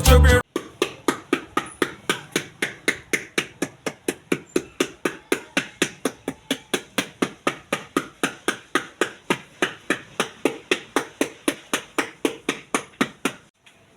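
Hand hammer striking at a fast, even pace, about four blows a second, stopping abruptly near the end. Reggae music cuts off half a second in.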